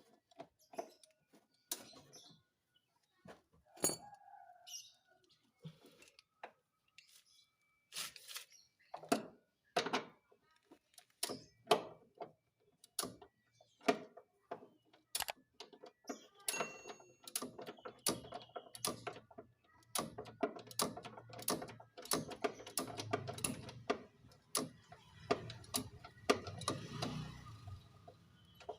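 Hand tools working on a car's engine mount: irregular metallic clicks and knocks, coming faster and closer together in the second half.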